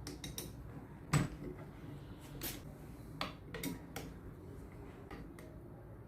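Irregular clicks and knocks of a tool and metal screws while the cylinder-head screws of a Kärcher pressure washer pump are fitted and tightened, with one louder knock about a second in.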